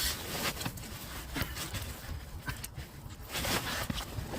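Scattered small clicks, scrapes and rustles of hands and metal tools working a turbo nut in a cramped engine bay, with a couple of louder scraping rustles near the start and about three and a half seconds in.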